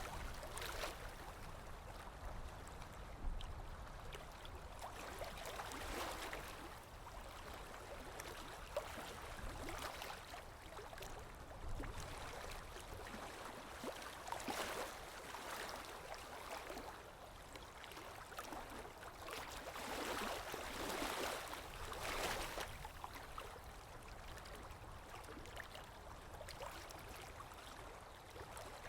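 Flowing water, a steady rush and gurgle that swells up and falls back every few seconds.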